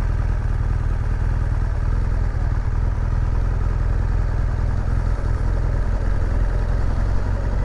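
BMW R1200GS boxer-twin motorcycle engine running steadily at low speed, a low continuous drone with no change in pitch.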